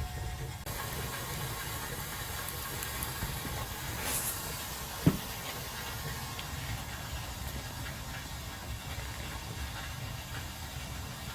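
Wood fire burning in a homemade downdraft wood stove: a steady rushing hiss over a low rumble, with one sharp pop about five seconds in.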